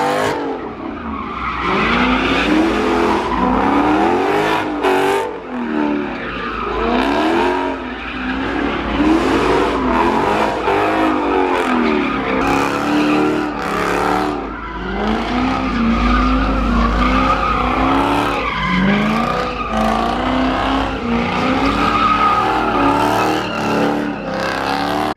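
Car engine revving up and down over and over, with tires squealing.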